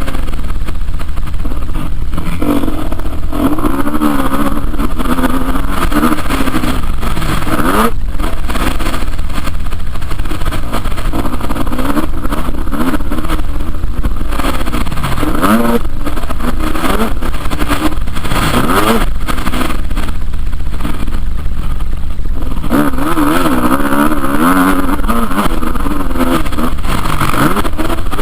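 Loud motocross motorcycle engines revving, their pitch rising and falling again and again through the gears and throttle changes, over a steady low rumble.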